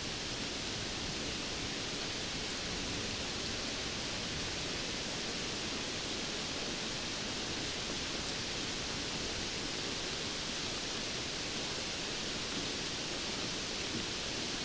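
Steady, even rain hiss with no separate drops or thunder standing out.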